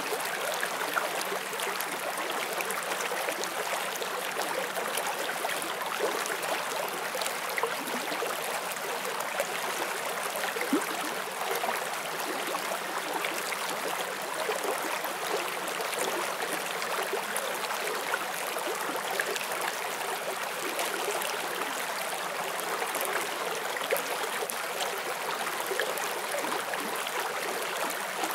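Forest stream flowing steadily over rocks: a continuous rushing of water with small splashes and gurgles, with no pause or change.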